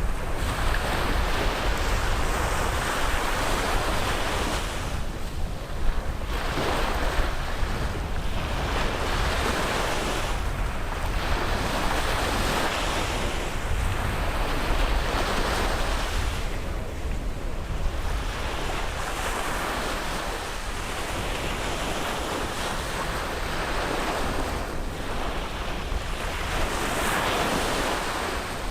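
Caribbean surf breaking and washing on a beach, the wash swelling and easing every few seconds, with wind rumbling on the microphone.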